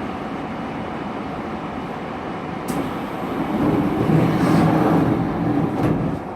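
Commuter train sound heard from inside the car just after the doors close: a steady rumble, a sharp click about three seconds in, then a louder low hum for a couple of seconds that drops away near the end.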